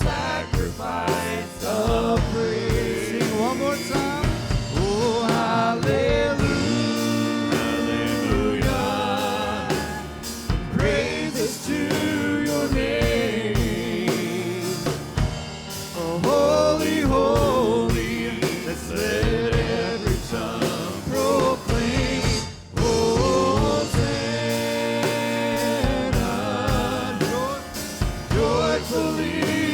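Live praise-and-worship music: singing over instrumental accompaniment with a regular beat, briefly dropping away about three quarters of the way through.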